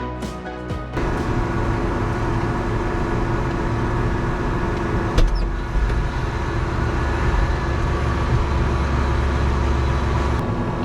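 Background music that stops about a second in, then a large farm tractor's diesel engine running steadily, with a single sharp click about halfway through.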